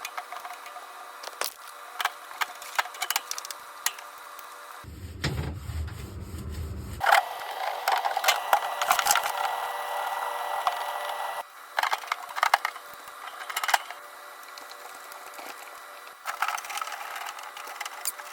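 Fridge shelves and drawers being washed at a sink: clattering knocks of plastic and glass, with running tap water in stretches, in several short clips cut together.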